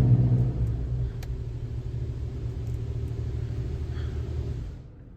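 Automated car wash machinery running, heard from inside the car: a low steady rumble with a rushing noise that eases after about a second and stops near the end.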